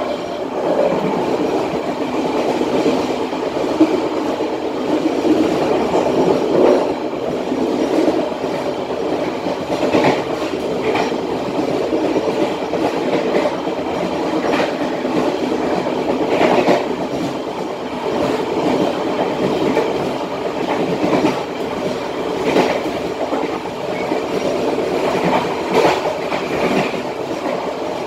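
Passenger train carriage running on rails at about 70 km/h: a steady rumble of wheels on track with occasional sharp clacks, heard from the rear of the last carriage.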